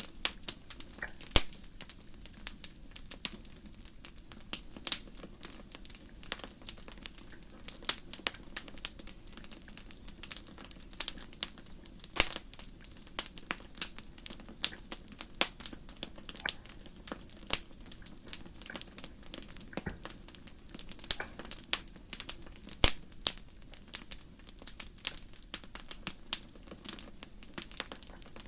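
Wood fire crackling: irregular sharp pops and snaps, several a second with occasional louder cracks, over a low steady hiss.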